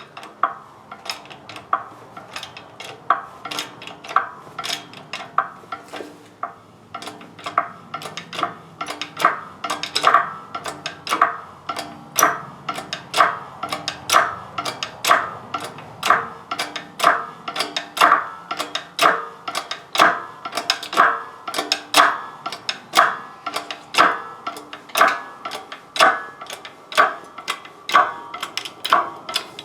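Hammer striking steel over and over, about two ringing metallic blows a second, as parts are driven during a front wheel bearing replacement.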